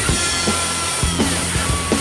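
Rock music: a drum kit played along to a recorded rock track with electric guitar and bass, with a guitar line sliding down in pitch and drum hits a little over once a second.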